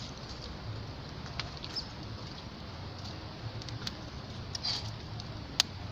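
Small wood fire of thin sticks crackling, with a few sharp, irregular pops over a steady hiss, just after it has caught.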